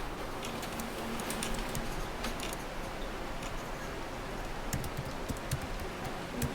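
Computer keyboard typing: irregular key clicks over a steady low background hum of office ambience.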